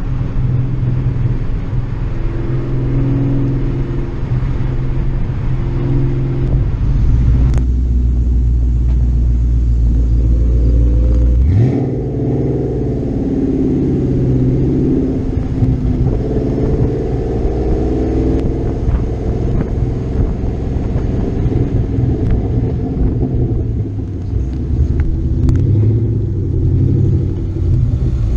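Car engine running with a steady low rumble as the car drives, rising in pitch about twelve seconds in as it accelerates.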